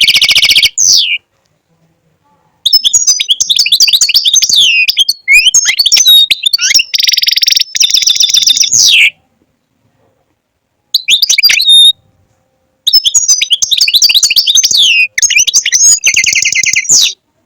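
European goldfinch singing: quick, high twittering and tinkling phrases mixed with buzzy nasal notes. The song comes in several bursts that break off suddenly into silence and start again.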